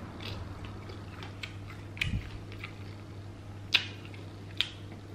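Close-up eating sounds: scattered wet clicks and smacks of chewing and handling sauce-dipped fried chicken, with two sharper smacks about three and a half and four and a half seconds in, over a steady low hum.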